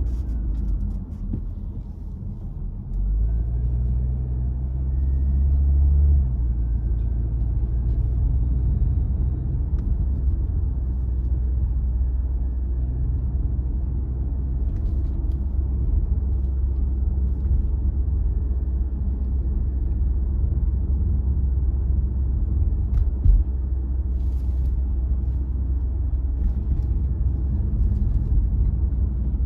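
A car being driven, with a steady low rumble of engine and tyres on the road. The rumble swells for a few seconds near the start, then holds even. There is a single sharp click about three-quarters of the way through.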